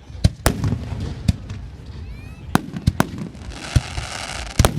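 Aerial fireworks bursting: a series of sharp bangs, several close together, over a low rumble. About two seconds in comes a short rising whistle, and near the end a stretch of hiss just before a double bang.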